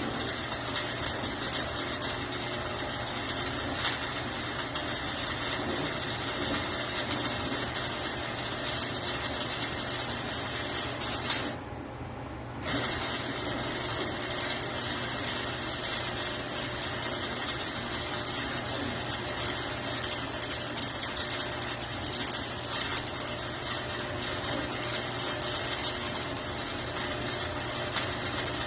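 Steady crackle of an electric welding arc laying a bead, with a low hum under it. The arc stops for about a second roughly twelve seconds in, then starts again.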